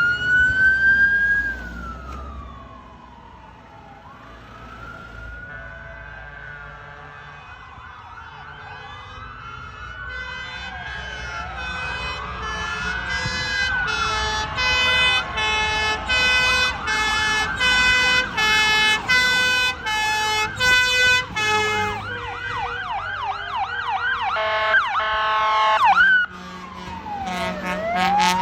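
Fire engines passing in procession with sirens sounding. A wailing siren rises and falls at the start and fades, then several sirens overlap. A two-tone siren alternates high and low for several seconds, a fast yelping siren follows, and near the end a wail comes back.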